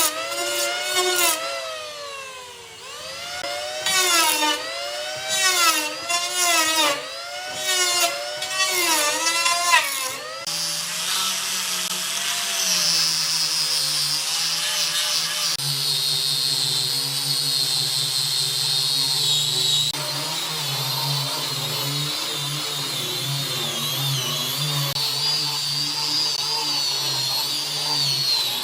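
Power tools working wood: for about ten seconds a motor speeds up and slows down again roughly once a second. About ten seconds in it gives way to a tool running steadily with a high whine.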